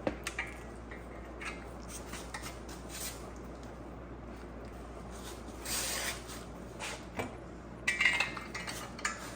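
Metal clinks and knocks of hand tools and engine parts being handled while pistons are fitted into the engine block. There is a short rushing noise a little past halfway, and near the end a louder cluster of ringing metal clinks.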